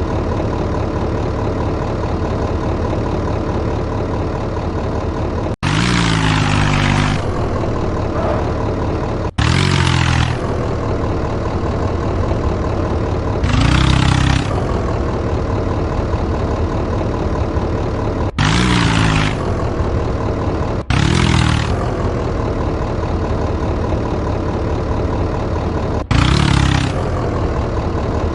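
Modified tractor engine idling steadily, with about six short revs a few seconds apart, each rising and then falling back to idle.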